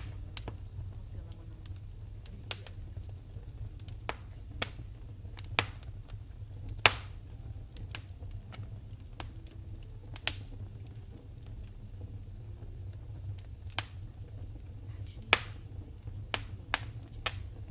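Wood fire in a fireplace crackling: about a dozen sharp pops at irregular intervals, the loudest about seven seconds in, over a low steady rumble.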